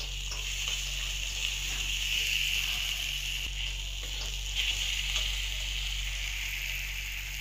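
Onion-tomato masala with ground spices sizzling gently in oil in a metal pot on a low flame, as a steady hiss. A few light scrapes of a metal spatula are heard as it is stirred.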